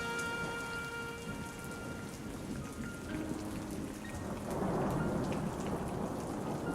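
Steady rain falling, with a roll of thunder swelling up about halfway through and staying loud. The last held notes of soft music fade out in the first two seconds.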